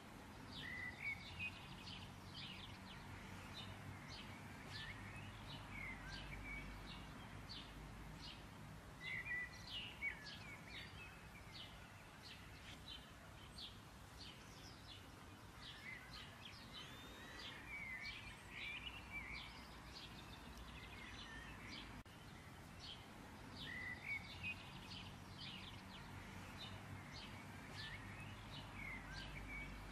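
Birds chirping and singing faintly, with many short quick chirps and some gliding notes, over a low steady hum.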